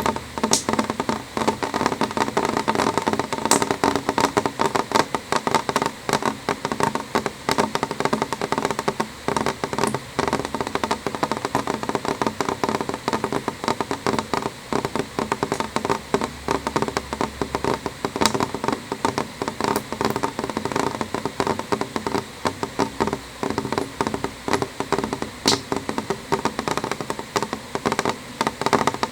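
Rain falling on a window: a dense, unbroken stream of drops tapping on the glass, with a few sharper single taps standing out now and then.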